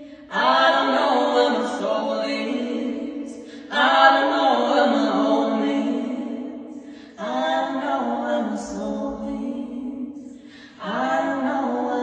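Unaccompanied voices singing a cappella in four phrases of held notes, each starting suddenly and fading away over about three seconds.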